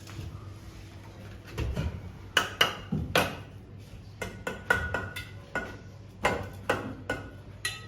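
A metal tool knocking on brick during bricklaying: about a dozen sharp, irregular knocks with a short ring, starting about a second and a half in.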